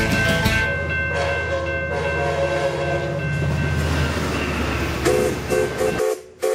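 A Metrolink diesel passenger train passing a grade crossing: a steady low rumble with a held horn chord, cut off abruptly about six seconds in. Then a short whistle blast from the steam locomotive Union Pacific 844.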